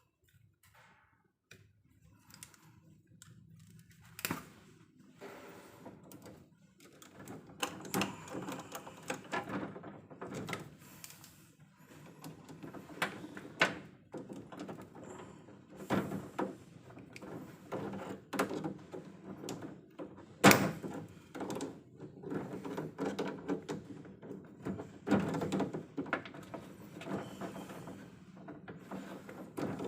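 Irregular clicks, knocks and clatter of hand work at an electrical panel, sparse at first and busier from about eight seconds in, with one sharp knock about twenty seconds in.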